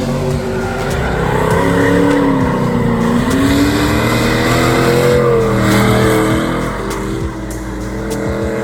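Drift car's engine revving hard, its pitch dipping and climbing as the car slides, over the hiss of skidding tyres. It eases off about seven seconds in.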